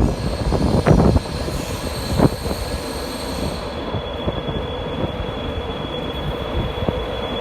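A train running on the track, with a steady high-pitched whine over the rumble of the wheels and a few louder knocks in the first couple of seconds.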